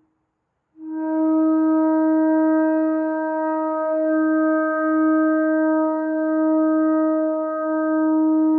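Shofar sounding one long, steady blast that starts just under a second in, after a moment of silence, and holds at a single pitch.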